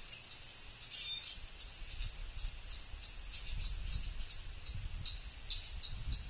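A bird calling a steady series of short, high, sharp notes, about three a second, with a low rumble underneath.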